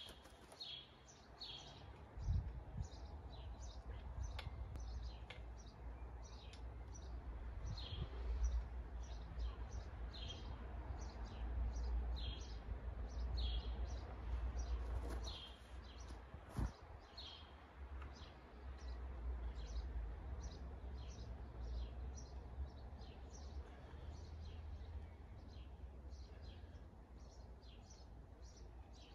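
Bird chirping over and over, short high calls about once or twice a second, over a steady low rumble.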